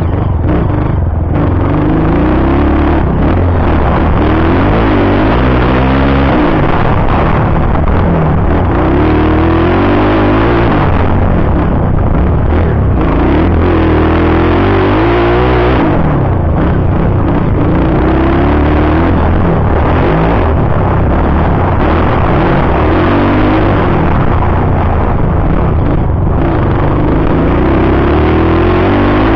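Motocross bike engine revving hard and rising and falling in pitch again and again, as the throttle opens and closes and the bike shifts gears around the track.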